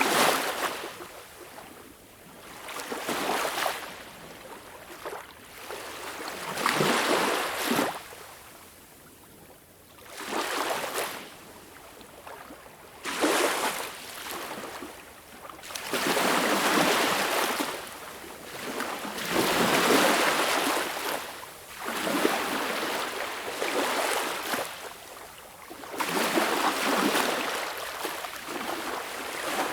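Small waves breaking and washing up a beach in an uneven series of swells, each rising as it breaks and fading as the wash runs back, some arriving with a sudden splash.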